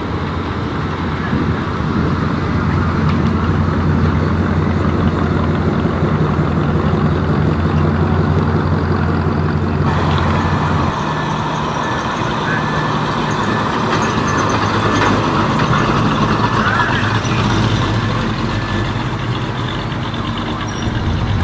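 A vehicle engine running steadily with a low, even note; about ten seconds in the sound changes, the low note dropping away as another engine sound takes over.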